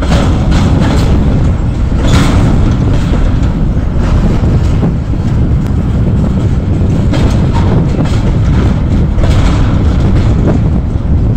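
Freight train of covered hopper wagons rolling past close by: a loud, steady low rumble of wheels on the rails, with sharper clanks and wheel clatter every few seconds.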